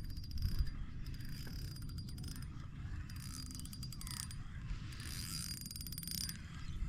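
Fishing reel being wound in several short bursts, its gears giving a rapid fine clicking with a faint high whine, over a steady low rumble.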